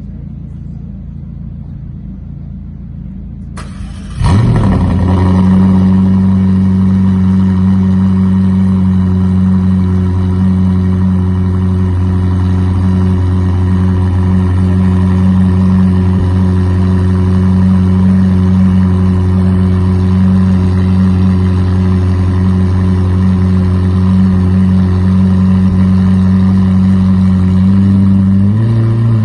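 McLaren Sabre's twin-turbocharged V8 starting about four seconds in with a sharp flare, then settling into a loud, steady idle. Its idle speed lifts slightly near the end.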